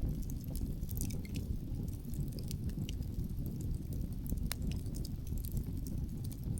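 Wood fire crackling, with scattered sharp pops of burning logs (a loud one about two-thirds of the way through) over a steady low rumble of wind.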